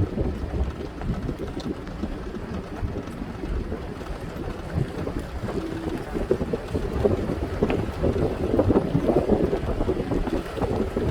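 Gusty wind buffeting the microphone ahead of an approaching rainstorm, a rough low rumble that grows stronger in the last few seconds.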